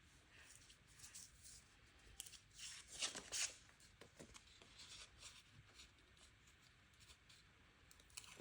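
Faint rustling and crinkling of paper and stickers being handled, with a louder spell of crinkling about three seconds in.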